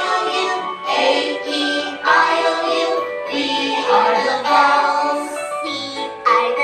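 Music with sung vocals: a children's educational song, sung in short phrases over an instrumental backing.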